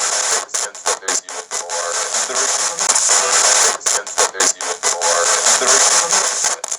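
Spirit box sweeping through radio stations: a choppy, stuttering run of static and snatches of broadcast sound, broken off several times a second.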